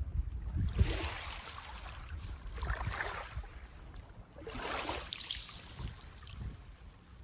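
Small waves breaking and washing up on a sandy beach: three hissing swells about two seconds apart, with a low rumble underneath.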